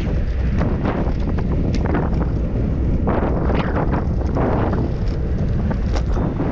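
Wind buffeting the microphone of a camera carried on a moving bicycle: a steady low rumble, with a louder rush of noise about three to five seconds in.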